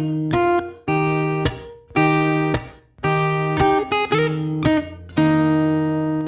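Background music: acoustic guitar strumming chords, a new chord struck about every half second.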